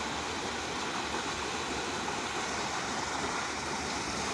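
Small waterfalls on a mountain stream, water steadily rushing over rocks and spilling into a pool.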